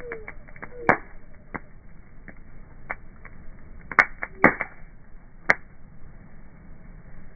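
Wood fire crackling, slowed down: scattered sharp pops over a low hiss, one loud pop about a second in and three louder ones between about four and five and a half seconds in.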